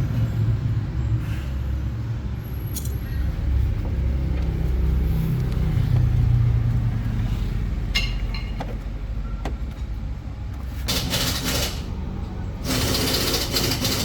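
An engine running steadily with a low rumble, with a few sharp ticks about eight seconds in and two loud bursts of hiss near the end.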